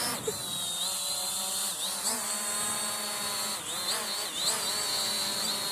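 Quadcopter drone's electric motors and propellers whining steadily, the pitch dipping and rising several times as the throttle changes.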